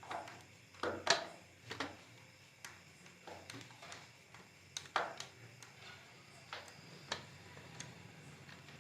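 Screwdriver turning a screw out of a wall switch plate: scattered light clicks and short scrapes, about a dozen over several seconds.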